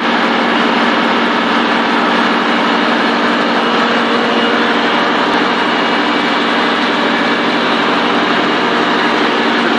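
Truck engine idling steadily with an even, unchanging hum.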